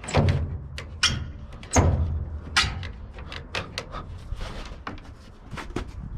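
Knocks and clunks of a homemade tailgate being handled and tied onto a pickup truck bed: four loud ones in the first three seconds, then lighter clicks and rattles.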